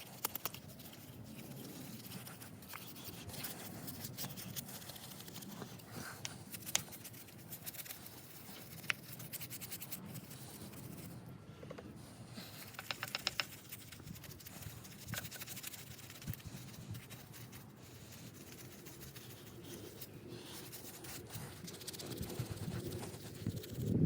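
Brush scrubbing grime off a car gearbox casing: a steady scratchy rasp with irregular sharp clicks and short runs of quick strokes.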